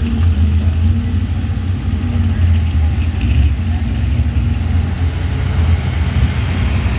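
Pulling truck's engine running loud and steady, with a deep low-pitched drone and no clear revving up or down.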